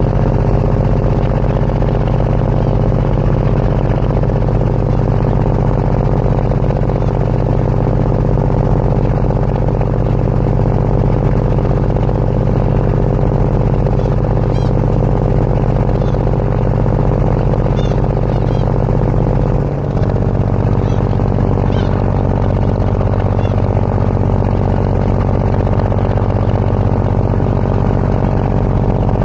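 Passenger ferry's diesel engine running steadily, a deep drone with even low tones; its note shifts briefly about twenty seconds in.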